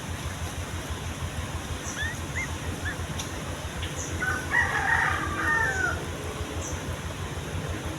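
A rooster crows once, about halfway through, for under two seconds, over a steady low hum. A few short, high bird chirps come before the crow.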